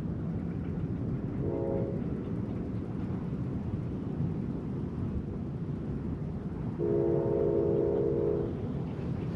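A horn sounds twice, a short blast and then a longer, louder one, over a steady low rumble.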